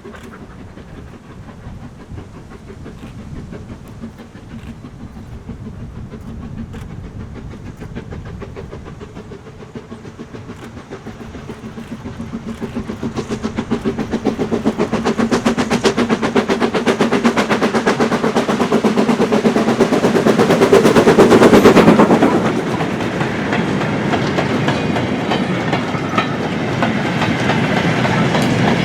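BR Standard Class 9F 2-10-0 steam locomotive working a mixed goods train, its rapid exhaust beats growing louder as it approaches and loudest about 21 seconds in as it passes. The sound then drops to the steadier clickety-clack of goods wagons rolling by.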